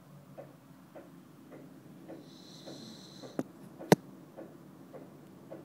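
A sleeping Corgi snoring softly, with a high whistling breath about two seconds in. Two sharp clicks come a little past the middle, the second one loud. A soft regular ticking, a little under twice a second, runs behind it all.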